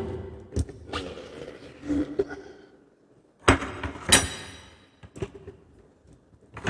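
A handful of hard knocks and clunks from objects being handled and set down, with the loudest burst of clatter a little past the middle.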